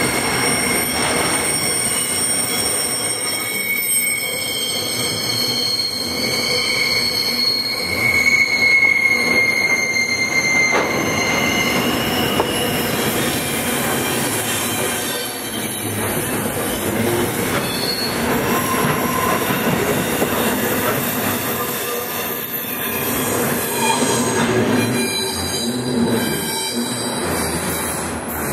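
Freight train wagons rolling past with steel wheels squealing against the rails. Several high, wavering squeal tones ride over a steady rolling rumble throughout.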